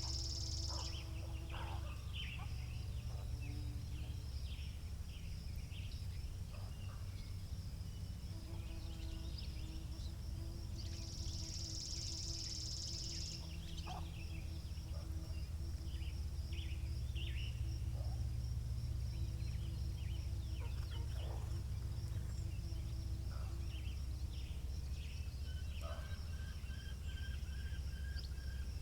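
Wind rumbling on the microphone, with small birds chirping and calling throughout. A steady high-pitched buzz runs underneath and swells for a couple of seconds about eleven seconds in, and a faint steady hum comes and goes.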